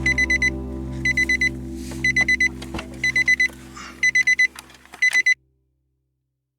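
Electronic alarm-clock-style beeping: quick groups of four high beeps about once a second, over the last sustained chords of music. The chords fade out and everything cuts off about five seconds in.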